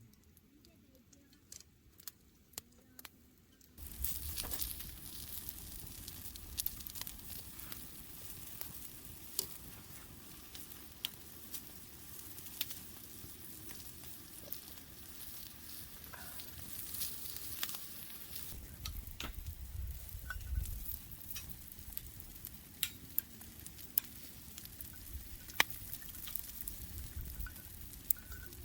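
Meat sizzling on a hot grill, starting suddenly about four seconds in, a steady frying hiss with scattered sharp pops and spits of fat.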